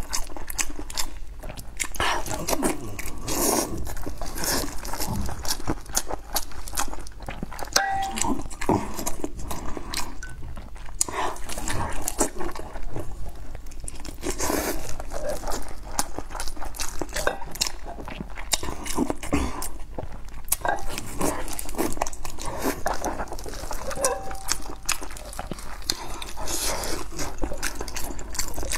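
A person biting and chewing a long sausage dipped in chili oil, close to the microphone: steady mouth-eating sounds with many small clicks throughout.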